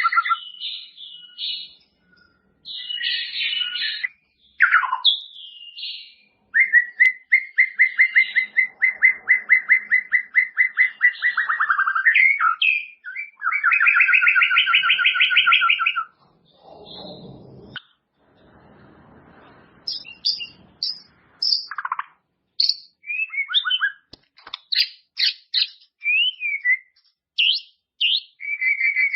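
White-rumped shama (murai batu) singing a varied song. Long rapid trills come in the first half, then a string of short, sharp, high whistled notes and slurred glides.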